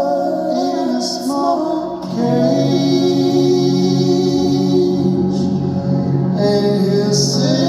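Live band playing the song's closing passage, with long held chords and sustained singing, recorded on a phone in the audience.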